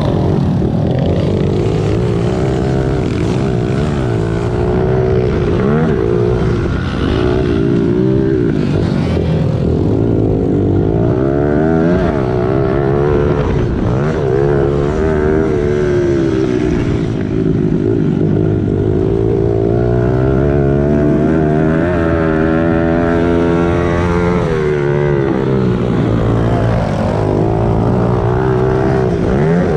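Small single-cylinder four-stroke pit bike engine lapping a track, its pitch rising and falling over and over as it is revved out and eased off.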